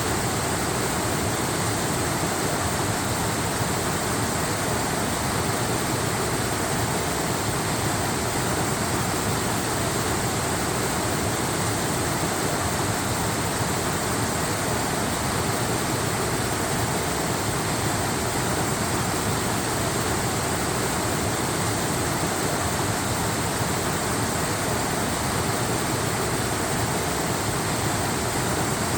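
Waterfall: water falling and rushing in a steady, unbroken roar of noise that neither rises nor falls.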